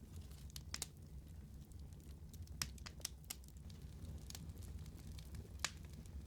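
Wood fire crackling: a steady low rumble of burning with scattered sharp pops and snaps, the loudest about two and a half seconds in and again near the end.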